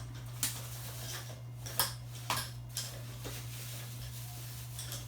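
Metal hand tools clinking and rattling against each other as they are rummaged through in search of a wrench, with several separate sharp clinks.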